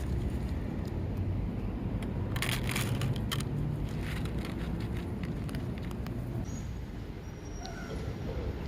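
Steady low rumble of distant road traffic, with a few short crackling rustles about two to three and a half seconds in.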